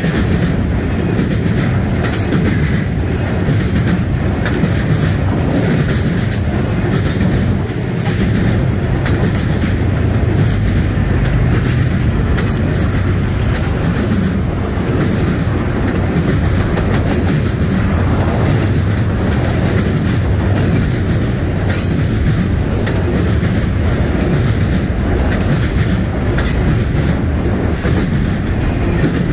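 Freight cars loaded with steel rail rolling past close by: a loud, steady rumble of steel wheels on the track, with scattered clicks of wheels passing over rail joints.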